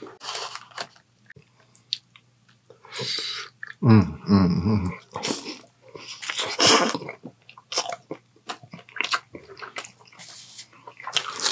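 Close-miked chewing and biting of a soft sandwich, with wet smacking mouth sounds and a low hum of the voice about four seconds in. A napkin rustles near the end.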